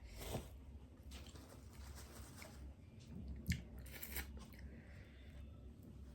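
A person eating boiled crab: faint chewing with a few short, sharp cracks and clicks, the clearest about three and a half and four seconds in.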